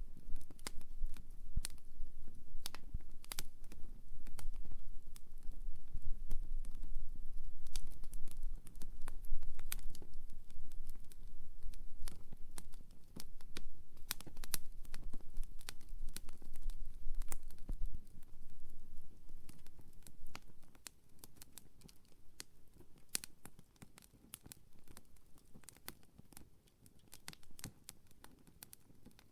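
Wood campfire crackling, with frequent sharp pops and snaps of burning wood. A low rumble under the crackle for the first two-thirds dies down about 20 seconds in, leaving quieter, sparser pops.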